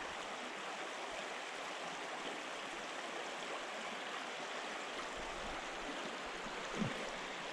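Creek water running over riffles: a steady rushing wash.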